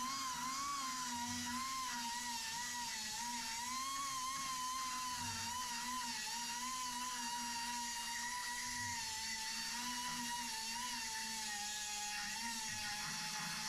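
A motor whining steadily, its pitch wavering slightly up and down.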